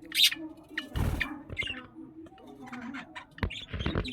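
Pet budgerigars chirping in short high calls, with a brief scratchy rustle about a second in and a few soft knocks near the end.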